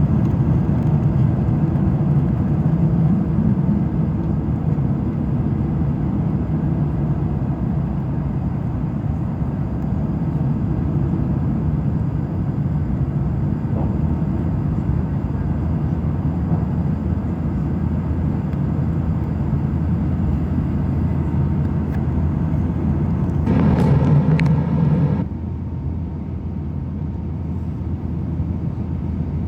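Airliner cabin noise inside an Airbus A350-900 in flight: the steady low rumble of its Rolls-Royce Trent XWB engines and the airflow. A brief louder noise comes about 24 seconds in, after which the rumble is a little quieter.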